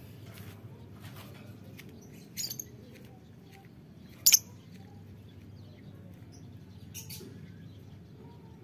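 Lovebirds calling: short, sharp, shrill calls, the loudest about four seconds in, with others just before and near the end, over a low steady background noise.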